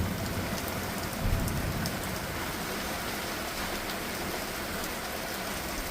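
Heavy monsoon rain pouring down steadily.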